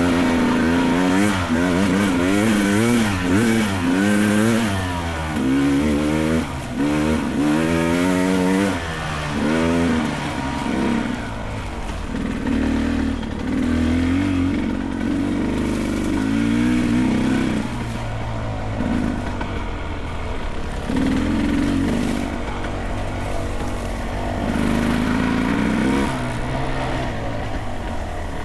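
Beta 300 Race Edition two-stroke single-cylinder dirt bike engine under hard, constantly changing throttle on a steep, rough climb. For about the first ten seconds the revs rise and fall quickly, then it settles into short held bursts of throttle that drop back between them.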